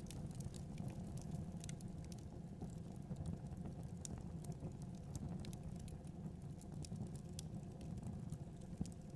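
Fire burning in a fireplace, crackling with many small irregular pops over a steady low rumble of the flames.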